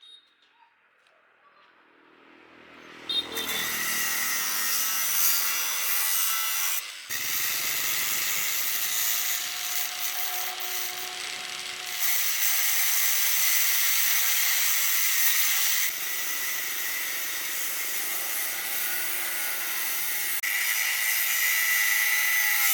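A handheld power tool spins up, then grinds or saws against a workpiece in several long passes, a loud, high-pitched abrasive noise whose pitch and load shift every few seconds.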